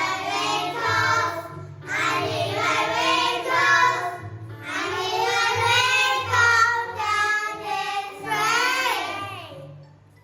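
A child singing a children's song over simple backing music. It comes in several phrases with short breaks, and the last phrase ends on a falling slide of the voice before fading out near the end.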